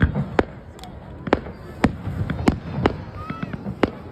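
Display fireworks bursting overhead: a quick, irregular run of sharp bangs, about ten in four seconds, over a low rumble.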